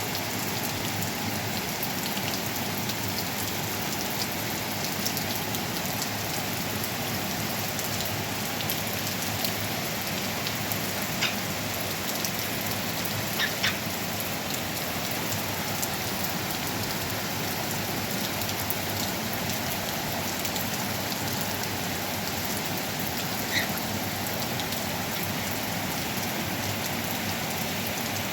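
Steady rain falling, an even hiss, with a few louder single drops tapping now and then.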